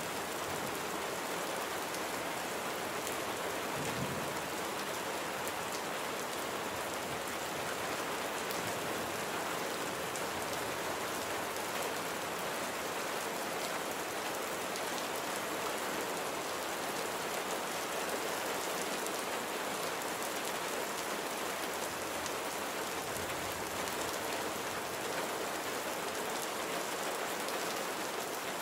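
Steady rainfall, an even hiss of rain with many fine drops pattering on surfaces.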